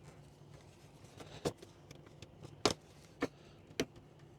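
Four sharp clicks and knocks a second or less apart, as hands wiggle and pry at a stuck headlight bulb socket and its wire connector, trying to work it free.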